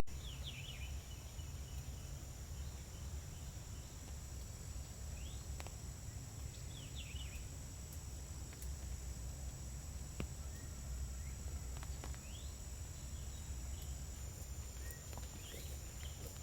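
Faint outdoor woodland ambience: a steady high insect drone, a few short, downward-sweeping bird chirps scattered throughout, and a low background rumble.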